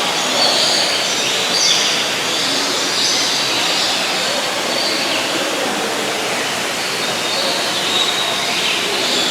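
Birds calling over and over in short high bursts, above a steady rushing background noise.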